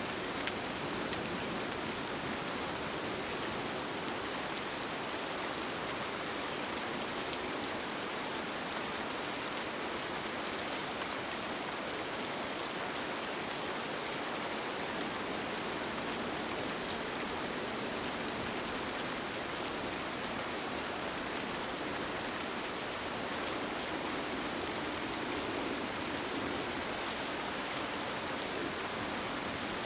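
Steady rain falling on a tent, an even hiss with fine scattered drop ticks and no pauses or changes.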